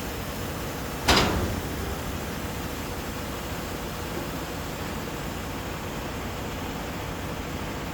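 Steady rumble and hiss of a truck dumper tipping a chip trailer up to empty its load of wood chips, with one sharp bang about a second in.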